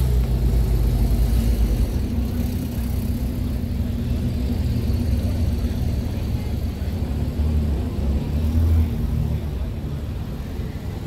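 Car engines rumbling at low speed as show cars roll past. A classic Chevrolet Camaro SS's V8 grows louder as it approaches, with a swell near the end.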